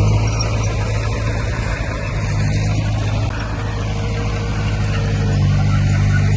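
Diesel engine of heavy earthmoving machinery running steadily under load, its low note swelling slightly about two and a half seconds in and again near the end.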